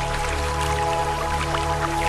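Slow ambient music of sustained tones over a steady low drone, mixed with the rushing hiss of a waterfall and scattered dripping sounds.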